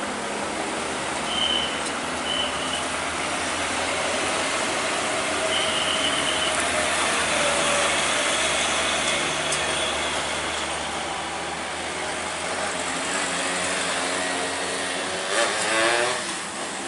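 Heavy trailer truck's diesel engine running at low speed, with steady road and engine noise. A few short high peeps sound in the first six seconds, and a brief rising whine comes near the end.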